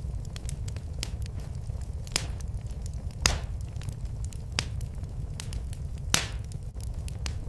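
Wood fire crackling in a fireplace: a steady low rumble of burning with frequent sharp pops and snaps, the loudest about two, three and six seconds in.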